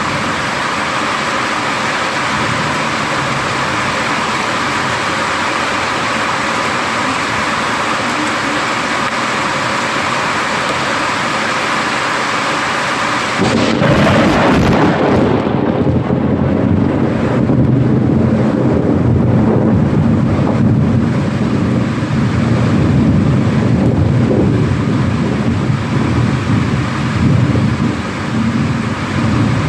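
Steady heavy rain, then about halfway through a sudden loud crack of thunder from a nearby lightning strike that rolls on as a long, low rumble over the rain.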